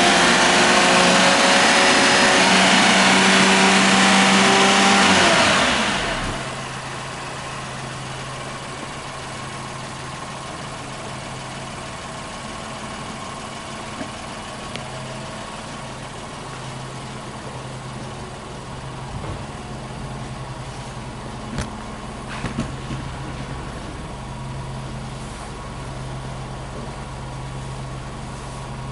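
Daihatsu Mira Custom RS's 660 cc three-cylinder KF engine held at raised revs for about five seconds, then dropping back to a steady idle. A few faint clicks come later in the idle.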